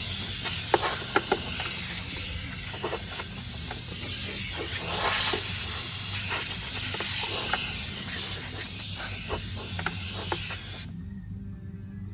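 Compressed-air blow gun hissing steadily while blowing loose grass and debris off a Kawasaki FR series engine's air intake area, with scattered clicks; it cuts off suddenly near the end.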